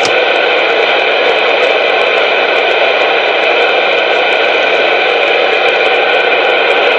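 Loud, steady hiss of static carried over a CB radio channel, as from a station keyed up and transmitting noise.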